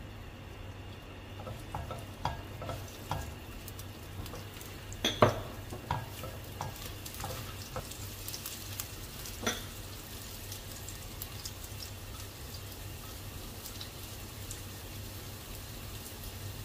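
Sliced shallots sizzling in hot oil in a wok, stirred with a spatula that clicks and knocks against the pan a few times, loudest about five seconds in and again near ten seconds. The sizzle grows a little brighter in the second half.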